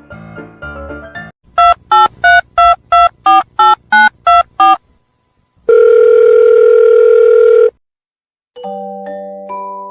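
Telephone keypad tones: ten quick dialing beeps in a row, then a loud steady phone tone for about two seconds. Piano music plays briefly at the start, and bell-like mallet music comes in near the end.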